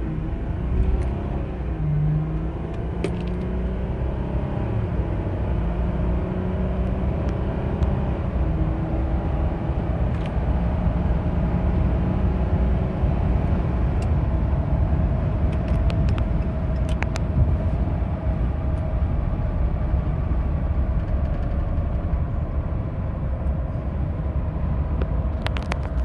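Ram 1500 EcoDiesel pickup's 3.0-litre turbodiesel V6 under hard acceleration. The engine note rises over the first several seconds, then settles into a steady rumble of engine and road noise at speed.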